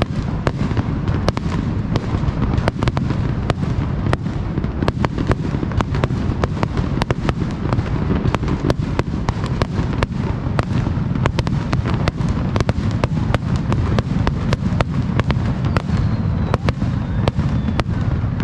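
Fireworks display in a dense, continuous barrage of aerial shell bursts. Sharp bangs and crackles come several times a second over a steady deep rumble.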